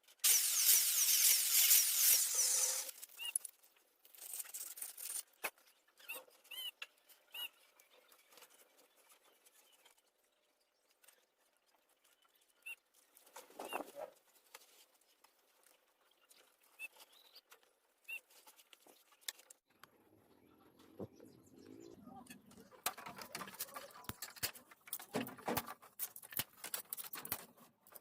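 A small high-speed power tool whirring for about three seconds, then stopping suddenly, followed by scattered light clicks and handling noises of work on the piece.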